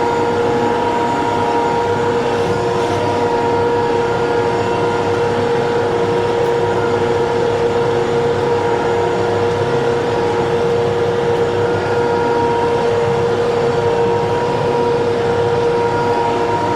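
TYM T654 diesel tractor running steadily under work, a constant drone with a steady whining tone on top.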